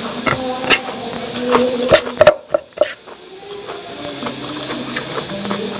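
Close-miked chewing and mouth sounds of a mukbang eater eating spicy noodles, a run of sharp irregular clicks over background music with held notes. The clicks thin out briefly a little past two seconds in, then resume.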